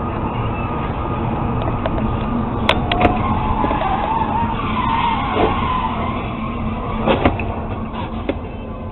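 Dash-cam audio of a car on the road: steady road and engine noise, with a sharp knock or two about three seconds in. Then comes a wavering tyre squeal lasting a few seconds, and two quick sharp bangs about seven seconds in.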